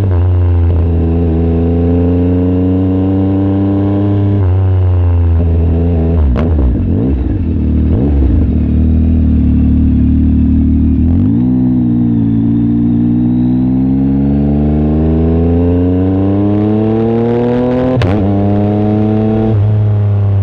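Yamaha MT-09 SP's three-cylinder engine through an exhaust with the baffle removed, pulling up through the revs with several gear changes where the pitch drops sharply. In the middle the revs fall and stay low for a few seconds, then climb again in one long rising pull before another shift near the end.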